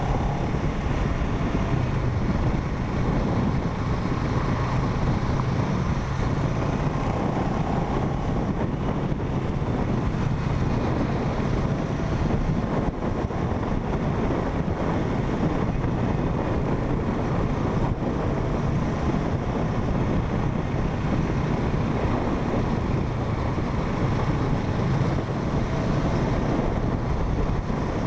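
Motorcycle riding at a steady speed: wind rushing over the microphone over a steady engine and road rumble.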